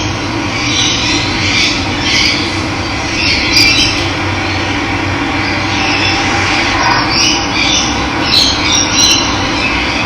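Steady rush of running water, with birds chirping on and off over it.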